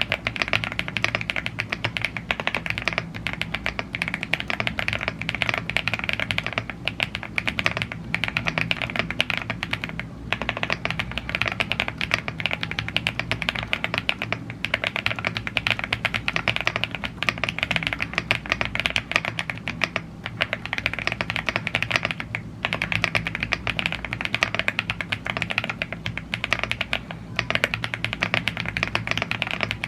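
Continuous fast typing on a YUNZII AL75 gasket-mounted aluminium mechanical keyboard with Blue Grey tactile switches and double-shot PBT keycaps: a dense run of keystroke clacks, broken by a few short pauses.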